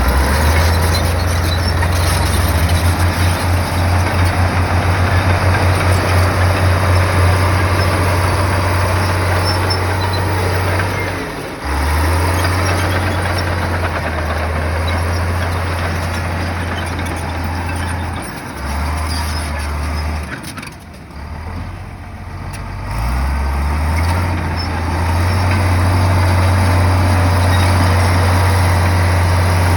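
Heavy bulldozer's diesel engine running with a steady low drone. It pulses briefly a few seconds in and cuts out or dips several times past the middle before settling steady again.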